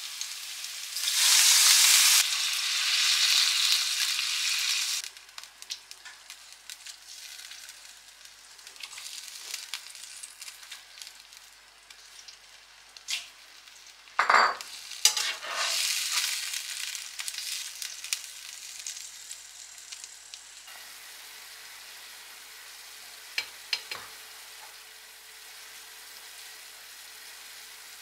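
Spice paste with lemongrass frying in a non-stick wok, sizzling loudly at first with a spatula scraping and clicking against the pan. About halfway through, a sudden loud sizzle as raw chicken pieces go into the hot oil, settling after a few seconds into a low steady sizzle, with a couple of clinks near the end.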